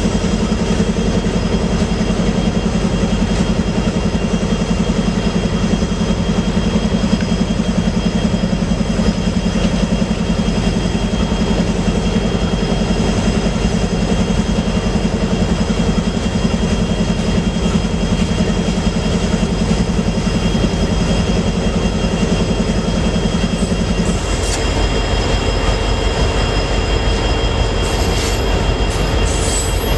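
Freight train rolling past at close range, its cars clattering steadily on the rails with a thin, steady high squeal from the wheels. A low hum drops out about four-fifths of the way through while the rolling noise carries on.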